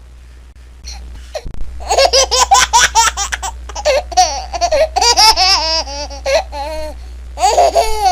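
A baby laughing. After about a second and a half of quiet, there are fast runs of high-pitched giggles, with a short lull and another burst near the end.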